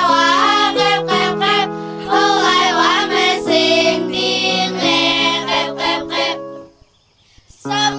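Girls' choir singing a song in several parts over held low accompanying notes. The music breaks off for about a second near the end, then starts again.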